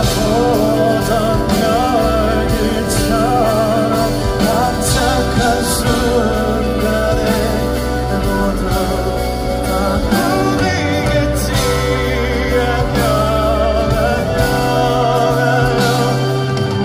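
Live band music with drums and a singing voice carrying wavering melodic lines, at full concert loudness.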